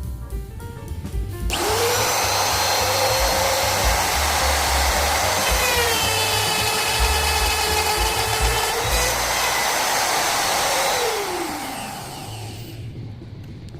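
Electric wood router switched on and spinning up quickly about a second and a half in, running at a high steady pitch that sags slightly for a few seconds midway, then switched off and winding down near the end.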